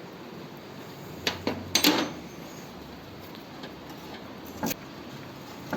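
A few short clicks and knocks of tools and metal parts being handled while unbolting a small steel catch-can tube, the loudest just under two seconds in and another near the end.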